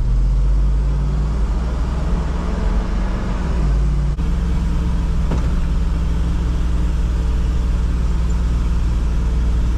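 Farm truck engine running while driving: a steady low drone whose pitch steps up about four seconds in.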